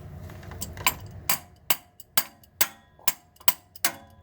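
Starter motor on a 2000 Camaro being struck repeatedly with a tool, giving sharp ringing taps that start about half a second in and settle to about two a second. This is the usual attempt to free a starter that gives no click and no start.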